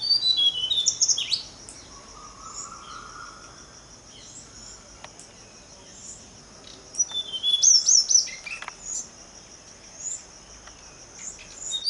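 A songbird singing two bursts of quick high chirps and trills, one at the start and one past the middle, over a steady high-pitched insect buzz.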